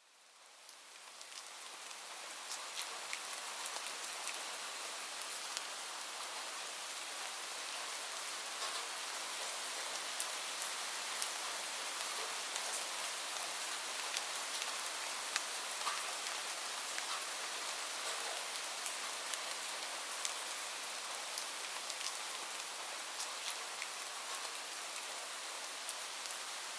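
Steady rain falling, an even hiss with scattered sharper drop ticks, fading in over the first couple of seconds.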